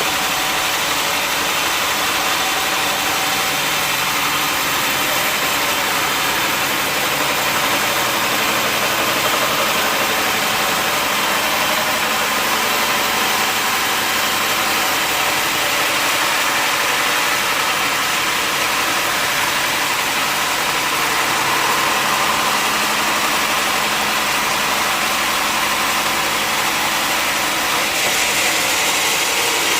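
Sawmill machinery running steadily, a constant mechanical drone without breaks.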